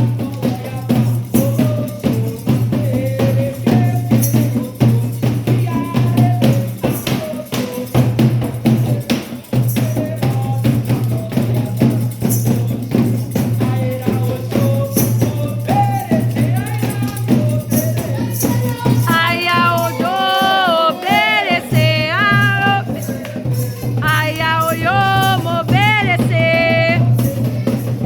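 Candomblé ritual percussion, drums and shaken rattles, playing a fast, dense rhythm. Singing voices with wavering, sliding pitch join in about two-thirds of the way through.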